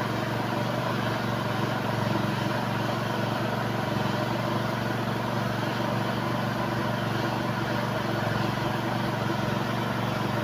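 Honda CR-V engine idling steadily, an even low hum with no change in speed.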